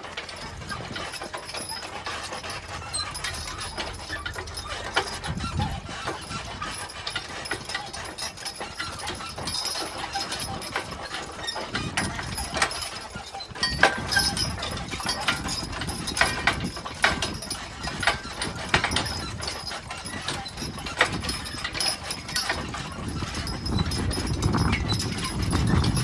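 Hooves of a team of two draft horses clopping on hard ground as they pull a driven vehicle, the knocks coming thicker and louder from about halfway through.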